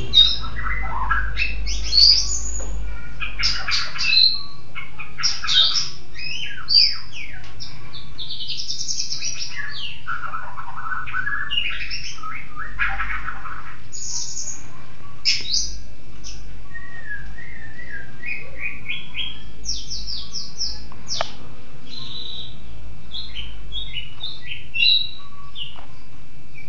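Songbird singing a varied song of rapid chirps, trills and whistled notes, dense at first and coming in shorter, sparser phrases in the second half.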